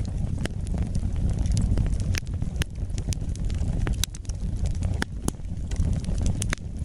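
Wood fire burning: a steady low rumble under scattered sharp crackles and pops, a dozen or so in a few seconds.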